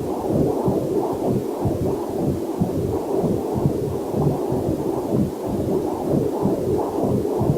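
Heartbeat picked up by a fetal Doppler heart monitor: steady, rhythmic pulsing, with a faint waterfall sound mixed in underneath.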